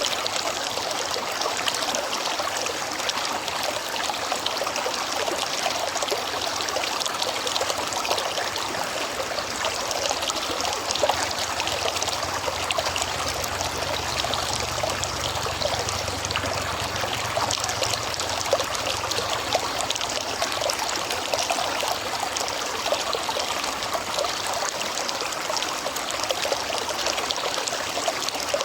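A river flowing, a steady rush of water with fine trickling and splashing. A faint low rumble comes in for a few seconds about halfway through.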